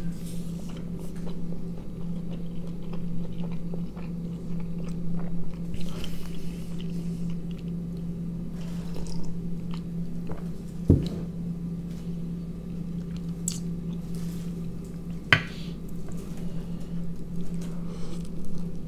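Close-up chewing and biting of soft tortilla-wrapped snack rolls filled with sausage, tomato and sauce, with wet squishy mouth sounds. A sip from a small glass comes partway through. Two sharp knocks about four seconds apart, the first about eleven seconds in, are the loudest sounds.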